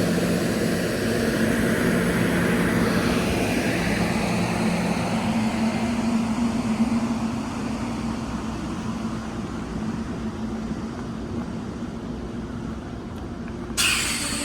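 Train running with a steady engine hum over rumble that slowly fades, then a sudden loud burst of hiss about a second before the end.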